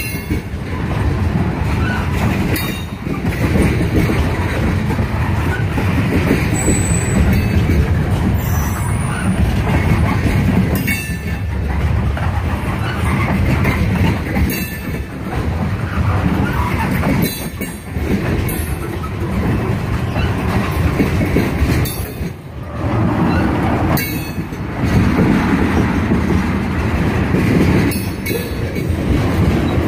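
A CSX mixed freight train's tank cars and gondolas rolling past close by: a steady heavy rumble of steel wheels on rail, with sharp clacks over the rail joints recurring every few seconds and brief dips in between.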